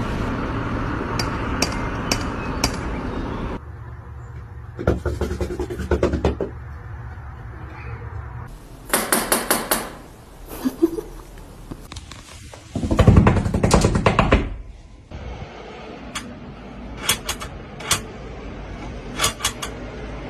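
Cats knocking at doors in a string of short clips: runs of quick sharp knocks and rattles, some spaced singly, some in fast bursts, over changing room noise.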